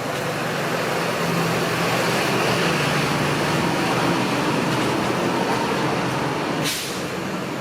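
A motor vehicle driving past on the street, a low engine hum and road noise swelling and then fading, with a short hiss near the end.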